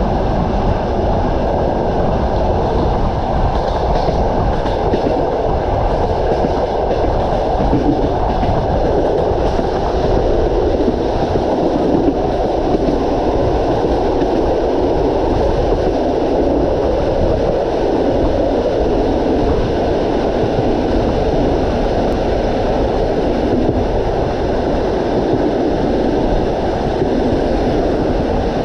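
Passenger train running steadily along the line, its wheels rumbling on the rails in an unbroken low noise.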